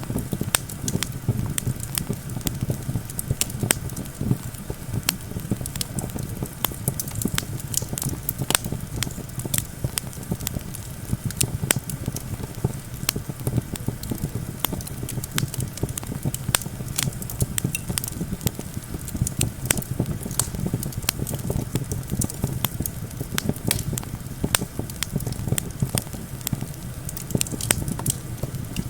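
Campfire crackling, with many irregular sharp pops and snaps, over a steady low wind noise.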